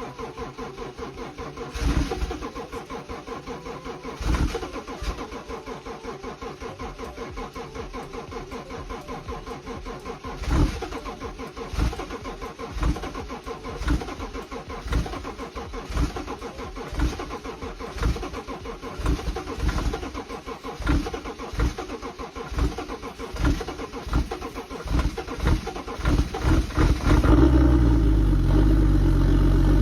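BMW engine being cranked on a hard cold start: the starter turns it over for a long time while single cylinders fire now and then, more and more often. About 27 seconds in the engine catches and runs loud and steady.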